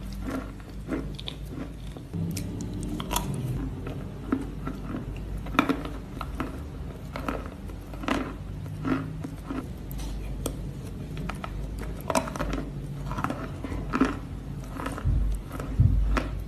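Mouth sounds of someone chewing chalk porridge (chalk mixed into a paste) close to the microphone: irregular clicks and lip smacks over a low steady hum.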